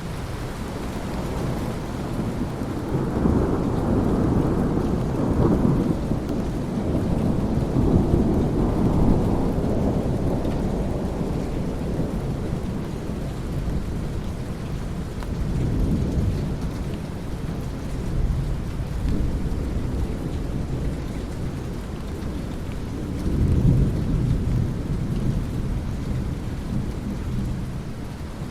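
Steady rain during a thunderstorm, with rolling thunder: a long rumble swells about three seconds in and dies away after about ten seconds, a weaker one comes around the middle, and another near the end.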